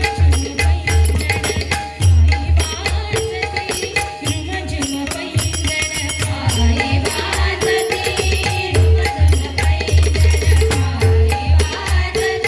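Instrumental passage of a Marathi gavlan: pakhavaj drum strokes in a steady rhythm, with jingling hand percussion and a held melody line between the sung verses.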